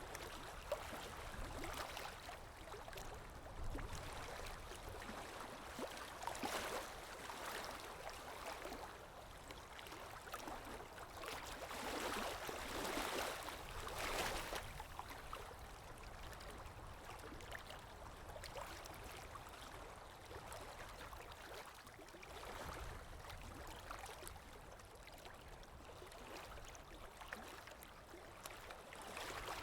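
Ambient recording of water lapping, with soft swells of splashing every few seconds, loudest twice in the middle, over a low rumble of wind.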